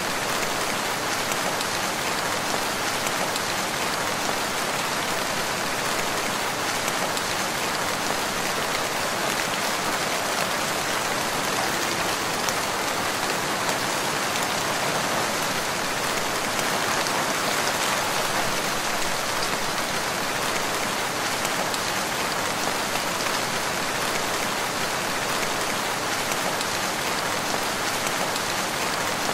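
Steady rain falling, a continuous even hiss of many drops with no thunder.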